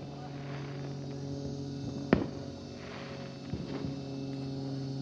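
Fireworks going off: one sharp, loud bang about two seconds in, then a few fainter pops a second and a half later. A steady low hum runs underneath.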